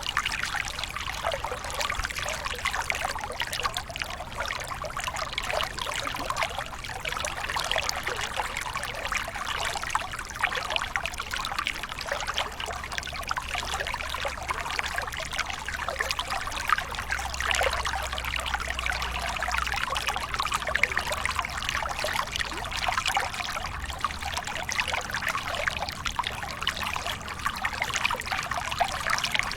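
Water of a small waterfall falling and splashing steadily, a continuous trickling patter with no let-up.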